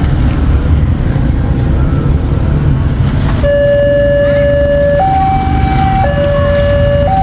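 Level crossing warning alarm starting about three and a half seconds in: an electronic two-tone signal alternating between a low and a higher note about once a second, the sign that a train is about to pass. Underneath, a steady low rumble of road traffic waiting at the crossing.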